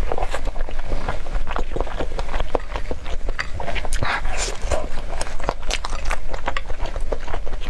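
Close-up biting and chewing of spicy sauced skewered food: a dense, irregular run of small clicks and smacks over a steady low hum.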